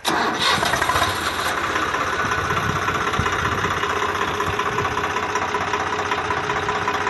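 Miniature model diesel engine running steadily at a fast, even speed.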